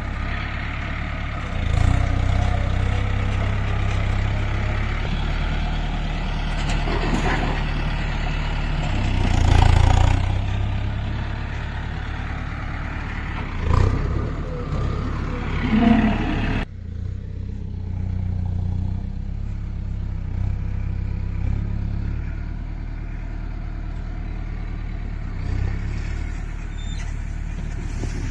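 Tractor diesel engine running steadily, rising briefly in revs several times. About two-thirds through the sound changes abruptly, the higher clatter dropping away while the engine runs on.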